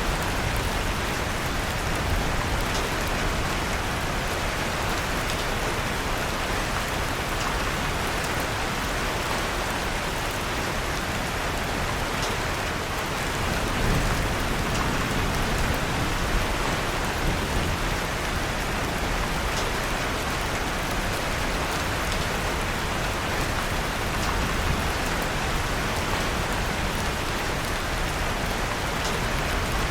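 Steady rain falling, with faint scattered crackles of a wood fire in a fireplace mixed in.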